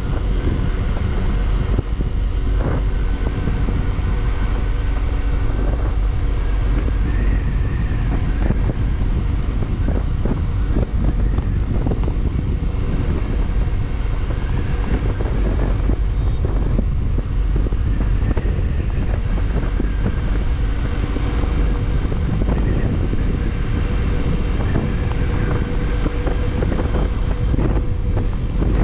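Motorcycle on the move at speed: heavy wind noise on the microphone over the steady hum of the engine.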